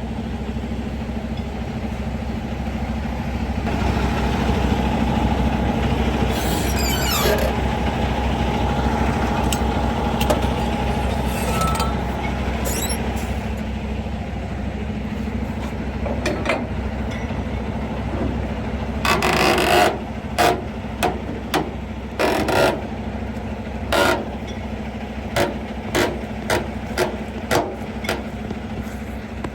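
Semi truck's diesel engine running steadily. About two-thirds of the way through, a short hissing burst is followed by a series of separate knocks and clanks.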